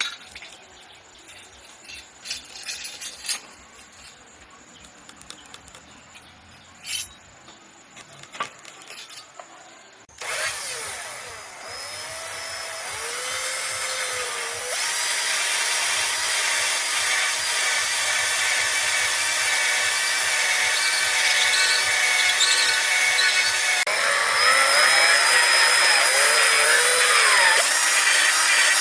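A few light knocks, then from about ten seconds in a loud, steady sawing sound on wood that builds and holds.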